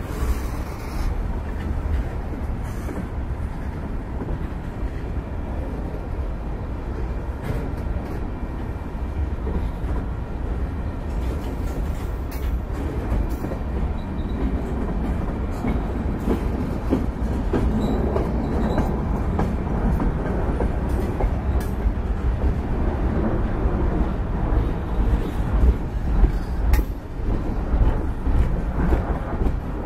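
Freight cars of a long mixed freight train rolling past: the steady low rumble of steel wheels on the rails, with occasional short clicks as wheels cross the rail joints.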